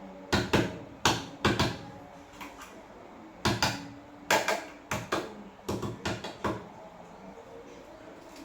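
A series of sharp, irregular knocks and clatters of hard objects being handled or set down, about a dozen in quick clusters.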